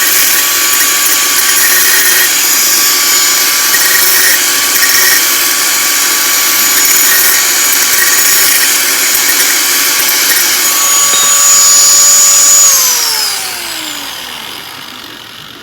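Lotus 650 W small angle grinder running free with no disc fitted, a steady high whine, as a test of whether it is in good condition. About three seconds before the end it is switched off and the whine falls in pitch as it spins down and fades.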